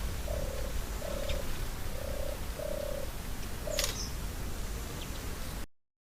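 A bird calling a series of short, low, even notes, about one a second, with a few faint higher chirps and a single sharp click shortly before the sound cuts off near the end.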